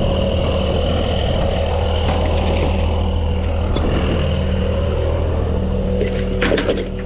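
Heavy truck's diesel engine idling steadily, with a short run of metallic clinks near the end.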